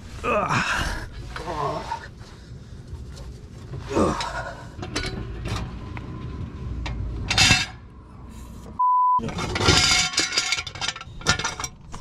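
A censor bleep: a steady single tone lasting about a third of a second, about nine seconds in, replacing the sound. Around it come intermittent metallic clinks and scrapes of hand work under a car, with brief voice sounds near the start and about four seconds in.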